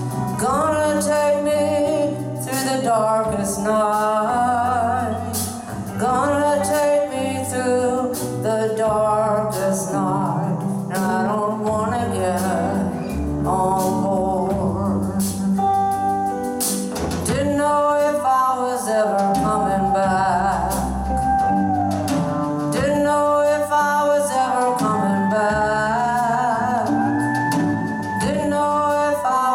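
Live band playing a slow blues-rock song: a lead melody sliding up and down in pitch over a bass line and drums.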